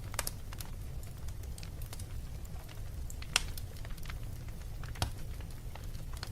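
Fireplace fire crackling: irregular sharp pops and snaps, the loudest about three and a half seconds in and another at about five seconds, over a steady low rumble.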